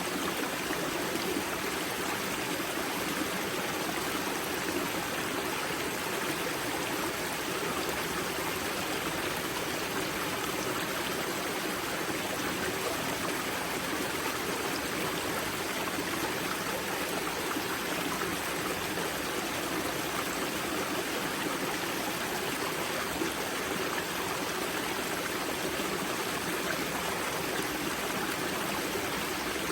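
Spring-fed river at its source rushing and burbling over stones, a steady, unbroken water sound.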